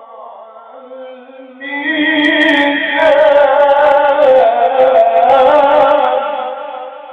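A male reciter's voice holding a long, ornamented melodic note in Quran recitation. It swells louder about two seconds in and fades out near the end.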